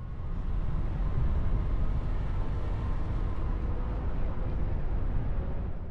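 Car driving at a steady speed: an even rumble of road and engine noise, with a faint steady hum.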